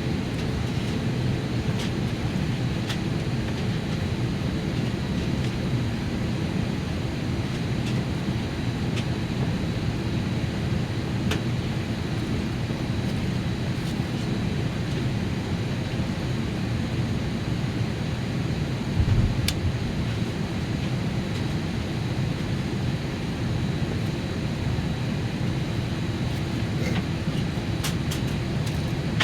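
Steady low rumble and hiss inside an Airbus A321 cabin, the aircraft's air-conditioning and machinery running, with a faint steady high tone over it. A few light clicks and one short low thump about two-thirds of the way through.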